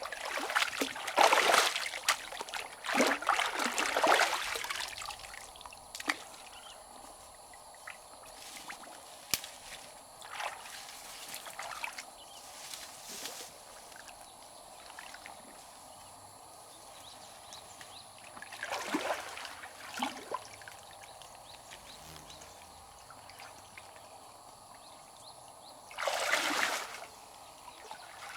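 River water splashing and sloshing in short bursts, heaviest over the first few seconds and again about two-thirds in and near the end, over a low trickle of flowing water between them.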